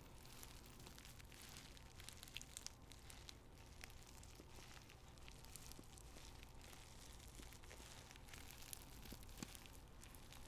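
Faint crinkling and rustling of paper tea bags being handled, with many small irregular crackles.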